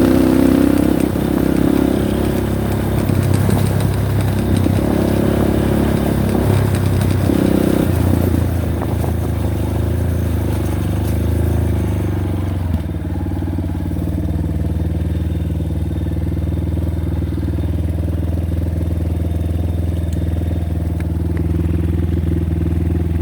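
Motorcycle engine running, its pitch rising and falling with changing revs for about half the time, then settling to a steady, lower run.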